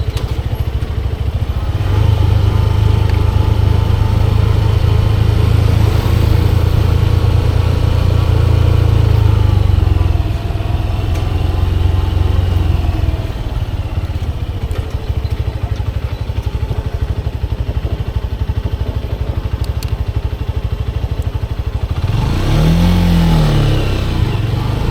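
Motorcycle engine running under way, louder for the first several seconds and then easing off. Near the end the engine pitch briefly rises and falls again.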